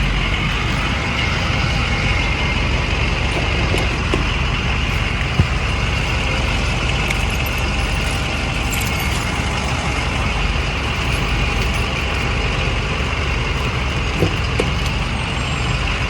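A box truck running, with steady engine and vehicle noise and a brief knock about five seconds in and another near the end.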